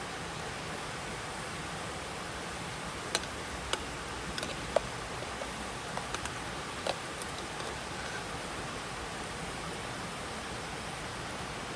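Wood campfire crackling: a handful of sharp pops, most in the middle few seconds, over a steady rushing hiss.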